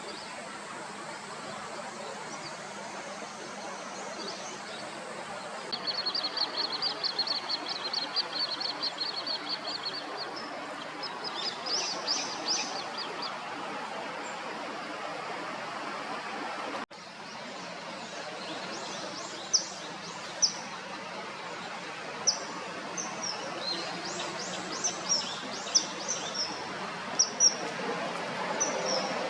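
Wild birds calling over steady outdoor background noise: a fast high trill lasting about four seconds, then, after an abrupt cut, a series of short, sharp, high chirps.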